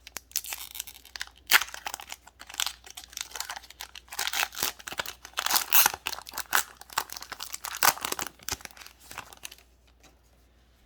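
Foil wrapper of a Pokémon TCG booster pack crinkling and tearing as it is handled and ripped open, a dense irregular crackle that stops about a second before the end.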